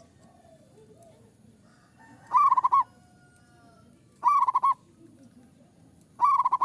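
Zebra dove (perkutut) cooing: three short, loud, rippling coos about two seconds apart, the last one near the end.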